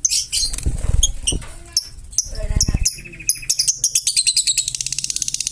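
Pet parrot making sharp, high chirps and clicks, then a fast run of rapid, even chattering pulses near the end. Two low thuds come in the first three seconds.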